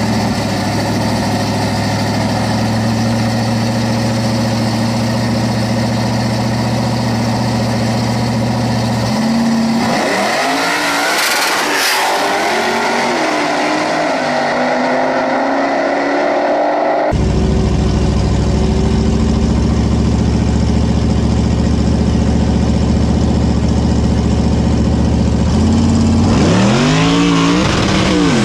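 Street-race cars, a Hellcat Redeye with its supercharged V8 and a nitrous Camaro, running steadily on the start line, then launching at full throttle, the engine pitch climbing and dropping with each shift. About halfway through the sound cuts abruptly back to the cars running steadily on the line, and a second launch with rising revs comes near the end.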